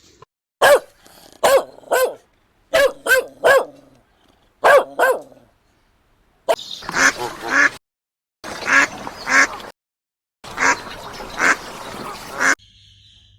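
Duck quacking: short pitched calls in quick groups of two or three. They are followed by three stretches of harsher, noisier calling, each cut off abruptly.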